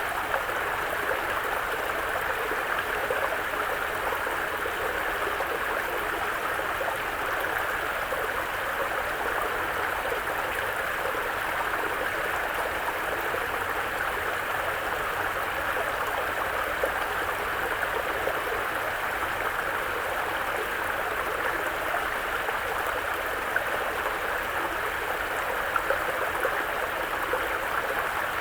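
Mountain brook flowing steadily, an even, unbroken rush of water.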